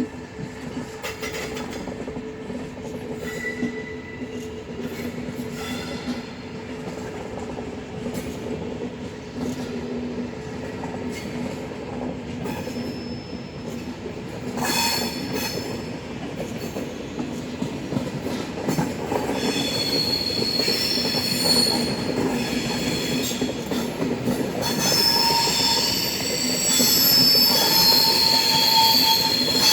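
Steady mechanical running with a low hum, joined about two-thirds of the way in by high-pitched squeals that grow louder toward the end.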